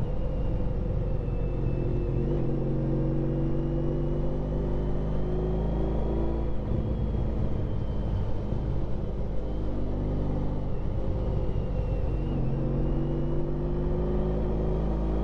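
Honda ST1300 Pan European's V4 engine running under way, its pitch stepping up and dropping back several times as the revs change, over a steady low rumble.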